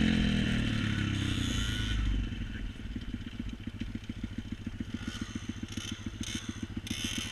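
A vehicle engine's revs die away, and about two seconds in it settles into an even, fast putter at idle. Short hissy scraping noises come a few times near the end.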